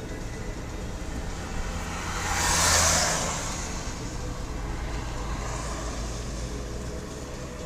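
A 1982 Jaguar XJ6's 4.2-litre straight-six driving with a steady low engine and road hum. Another vehicle's noise swells and fades about three seconds in, and a fainter one follows later.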